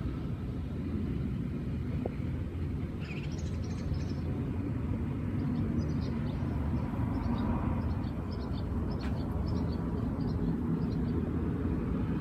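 Small birds chirping in short, quick, high calls: a brief flurry about three seconds in, then a busy run of chirps through the second half. A steady low rumble continues underneath.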